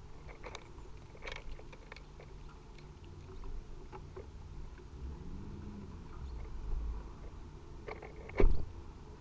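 Irregular light clicks and taps at a bird feeder, with one much louder knock near the end.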